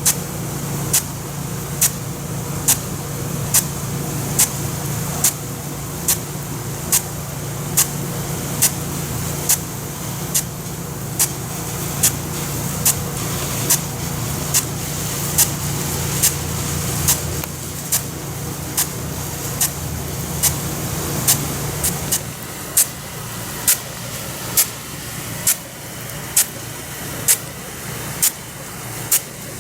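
Nelson F100 Big Gun irrigation sprinkler running, its water jet hissing while the drive arm clacks sharply and evenly a little more than once a second. A low steady hum underneath stops about three quarters of the way through.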